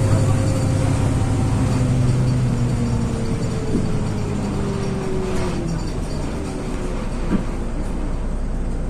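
LiAZ 6213.22 articulated diesel city bus slowing down, heard from inside: the engine drops away and a whine falls steadily in pitch, with a few light rattles and knocks from the body.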